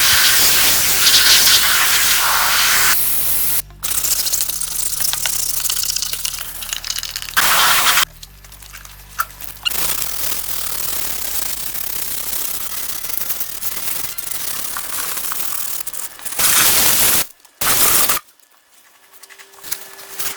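Compressed air hissing in long stretches and shorter bursts, with abrupt breaks between them.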